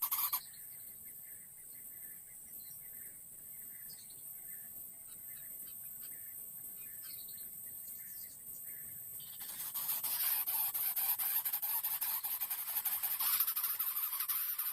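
Baby greater coucal giving its rasping begging calls, a fast, harsh rattling buzz. The buzz breaks off within the first second, leaving a steady high hiss with a few faint chirps, then comes back loud about ten seconds in.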